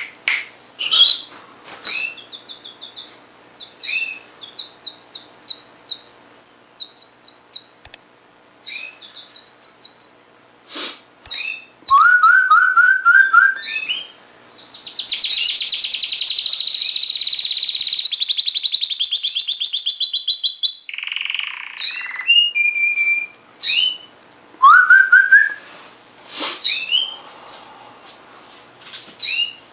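Domestic canary singing: scattered chirps and short high whistled notes, then a run of quick rising notes, a loud fast trill that runs straight into a long held high whistle, and a lower buzzy note after it before the chirping resumes.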